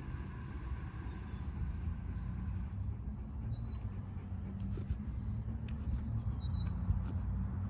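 Outdoor background: a steady low rumble, with two brief pairs of high, bird-like chirps and a few faint clicks.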